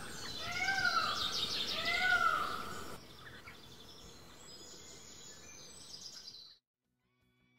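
Outdoor birdsong: a bird gives three loud calls that rise and fall in pitch, about a second apart, over fainter high chirping from other birds. After about three seconds only the quieter chirping remains, and the sound cuts off about six and a half seconds in.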